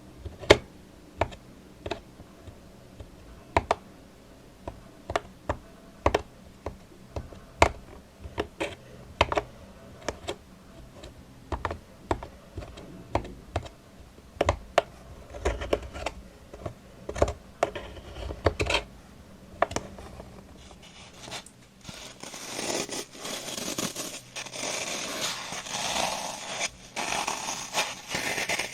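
Close-miked ASMR trigger sounds: sharp, irregular taps or clicks, about one or two a second, then about three-quarters of the way through a continuous scratching rustle takes over.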